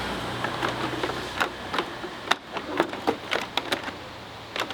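A run of irregular sharp clicks and knocks, about a dozen, over a low steady hum.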